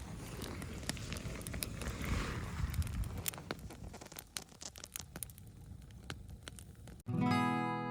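Campfire crackling, with scattered sharp pops over a soft rushing hiss in the first few seconds. About seven seconds in it cuts off abruptly and strummed acoustic guitar music starts.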